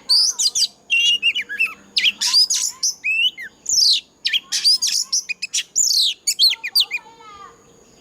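Oriental magpie-robin singing a fast, loud, varied song of whistles, rapid up- and down-sweeping notes and short trills. About a second before the end the song breaks off, and a fainter run of falling notes follows.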